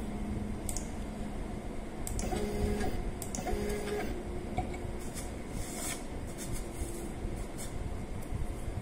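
DIY CNC milling machine's stepper motors whining as the axes move, the pitch jumping between steady tones as the speed and direction change, with scattered light clicks.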